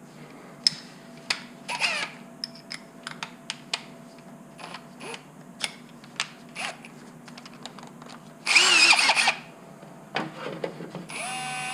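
Scattered small clicks and knocks of tool handling, then a short burst of a power drill about eight and a half seconds in, and the drill starting again near the end with a steady whine, enlarging a misaligned bolt hole in a plastic battery box.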